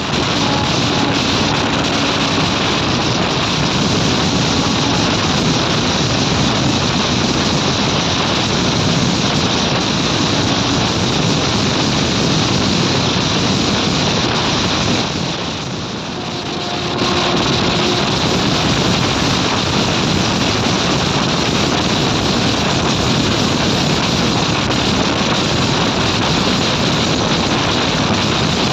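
Steady rush of wind on the microphone over the running rumble of an ICF passenger train at speed, dipping briefly for a second or two about halfway through.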